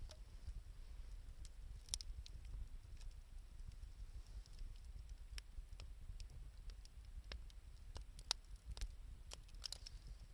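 Wood fire of 2×4 lumber and scavenged wood crackling: irregular sharp pops and clicks over a low steady rumble.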